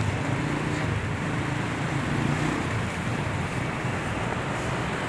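City street traffic: vehicle engines running with a steady low hum under a wash of road noise.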